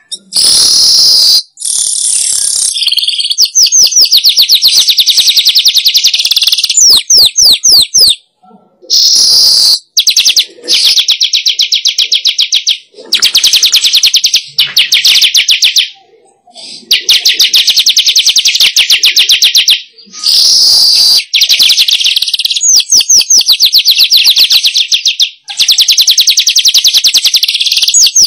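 Weaver bird (manyar) song played as a lure call. It comes as long, loud, high buzzy chattering phrases of a few seconds each, broken by short pauses, with runs of rapid ticking notes between them.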